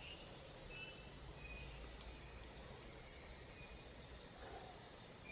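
Faint insects: one steady high-pitched trill held throughout, with a few short chirps over it, against a low background hum.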